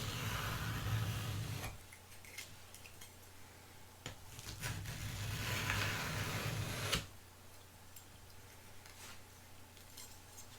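Two bouts of rubbing or scraping against a hard surface, each about two seconds long. The second ends in one sharp click, and a few faint ticks follow.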